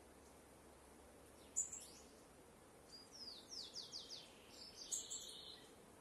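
Wild birds singing: a single sharp high note about a second and a half in, then a quick run of about six descending whistled notes, and a burst of chirping near the end, over a faint steady hiss.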